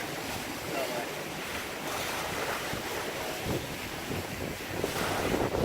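Wind buffeting the microphone over the rush and slosh of water along a sailboat's hull as it sails downwind.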